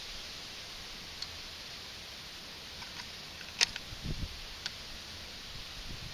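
Bolt of a Ruger American Predator rifle being worked to chamber a round, giving a few sharp metallic clicks with a low knock around the middle; the round goes into the chamber tight. Steady wind noise underneath.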